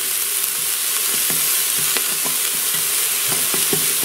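Diced onions sizzling in butter in a pressure cooker's pot, with irregular taps and scrapes of a spatula against the pot as they are stirred and broken apart.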